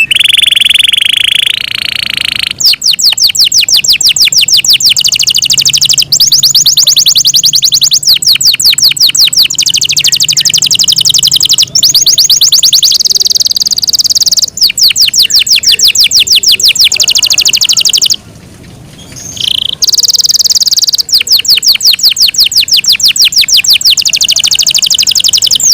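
Yorkshire canary singing. It opens with a steady buzzing roll for about two and a half seconds, then goes into long fast trills of repeated falling notes, about ten a second. The trills come in phrases with brief breaks, and there is a pause of over a second about two-thirds of the way through.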